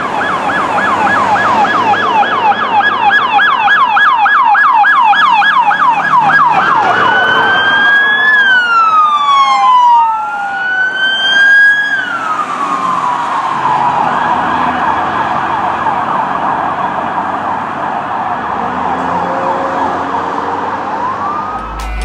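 Police cars' electronic sirens passing. For about the first six seconds they run a fast yelp, about four sweeps a second. They then switch to a slow wail rising and falling, with two sirens at times overlapping.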